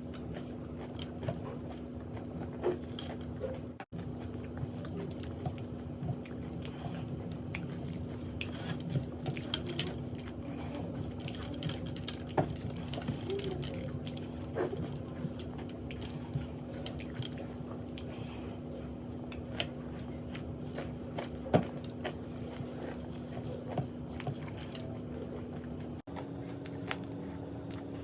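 Close-up chewing and crunching of puffed rice and crisp snacks, with frequent small clicks against the plate, over a steady low hum.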